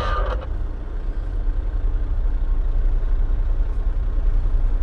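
Dump truck's diesel engine running with a steady low rumble.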